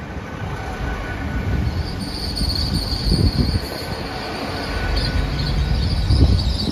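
Great Western Railway Class 800 train rolling slowly along the platform, with a low rumble that grows louder. A steady high-pitched squeal sets in about two seconds in and continues.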